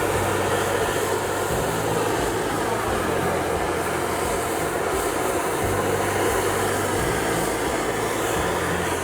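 Late-1800s steam locomotive letting off a long, loud hiss of steam, steady for about nine seconds and cutting off at the end.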